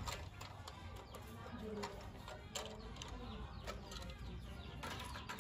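Faint bird cooing, a few short calls, with scattered light clicks.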